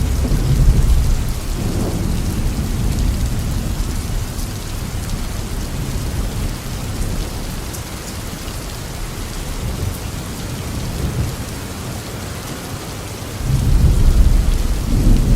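Steady rain falling through a thunderstorm, with low rolls of thunder: one rumble fading in the first second or two, and another louder one building near the end.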